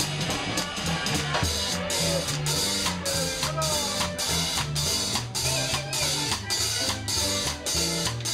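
Live New Orleans-style jazz band playing a second-line number: a drum kit keeps an even beat of about two hits a second under a stepping bass line, with wind-instrument melody lines weaving above.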